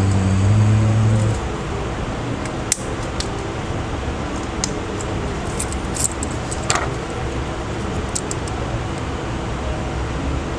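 Small sharp clicks and taps from handling smartphone parts and repair tools, heard over a steady fan-like hiss. A brief low hum sounds for about the first second and a half.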